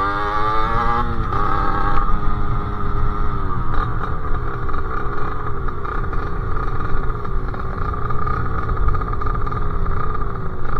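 Sherco SM-R 50's 50cc two-stroke engine through its KRM exhaust, ridden: the revs climb, drop sharply about a second in as it changes gear, dip and pick up again about four seconds in, then hold a steady drone over a low rumble.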